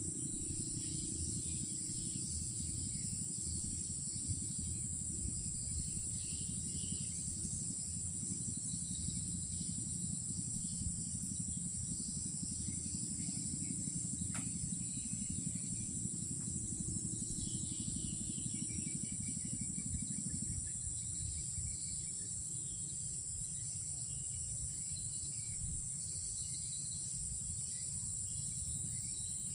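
Night insect chorus, a steady high-pitched trilling, over a low rumbling background noise that eases about two-thirds of the way through.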